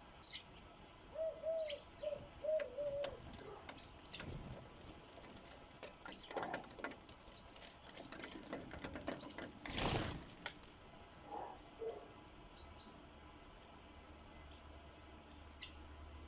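Sparrows at a bird feeder: scattered short high chirps and clicks of pecking, a flutter of wings about ten seconds in, and a brief run of low rising-and-falling notes near the start.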